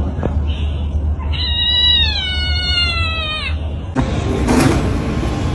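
A cat giving one long meow lasting about two seconds, its pitch sagging toward the end, over a steady low hum.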